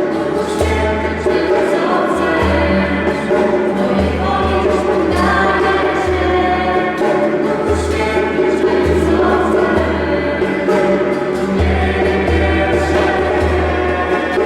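Live band playing a Christian worship song, with singing over sustained chords and a steady, pulsing bass line.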